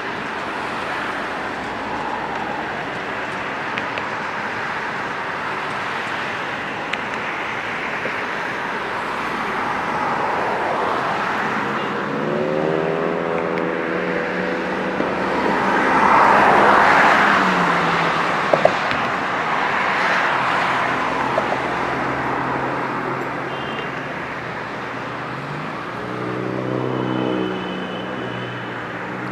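Road traffic passing steadily. A vehicle's engine hum rises and falls twice, and the loudest pass comes about halfway through.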